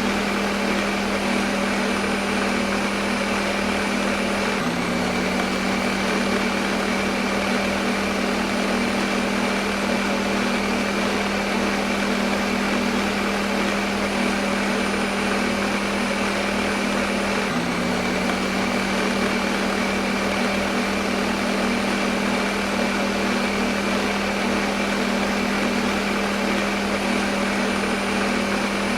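Electric kitchen blender motor running steadily, a constant hum with a whirring rush over it; the hum shifts slightly in pitch twice, about 5 seconds in and again past the middle.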